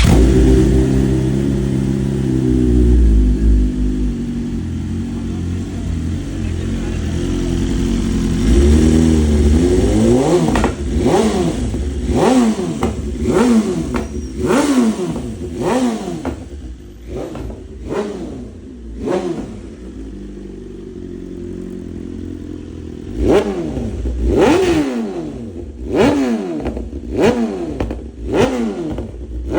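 BMW S1000RR inline-four sport bike engine breathing through a full titanium exhaust with an SC-Project CRT slip-on can. It runs steadily for about ten seconds, then is revved in quick throttle blips, about one a second, each rising and falling sharply. It settles back to steady running briefly a little after 20 s before the blips resume.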